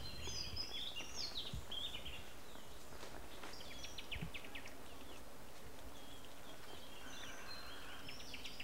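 Faint birds chirping in short clusters, some calls falling in pitch, with a quick trill partway through, over a steady background hiss.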